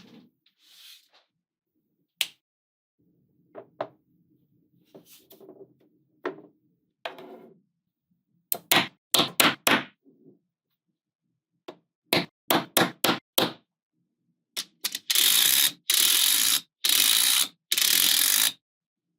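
Small magnetic balls clicking as they are snapped together, first as scattered single clicks, then in quick runs of four or five sharp clicks. Near the end come three louder rattling bursts of about a second each, as strings of balls clatter together.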